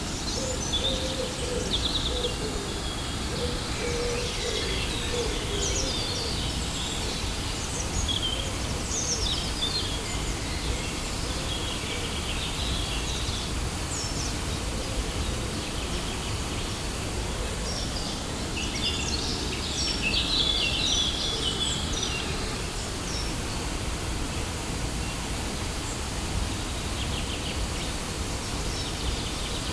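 Steady rush of a waterfall, with birds chirping and calling over it, busiest about two-thirds of the way through. A low call sounds during the first few seconds.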